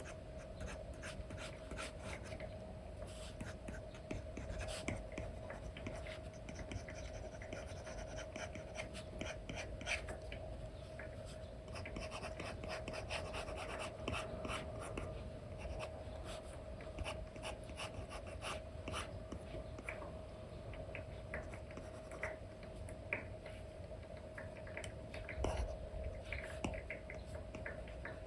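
Apple Pencil tip with an Elecom nib scratching and tapping on an iPad screen covered with a paper-like film, in quick, irregular strokes. A faint steady hum runs underneath.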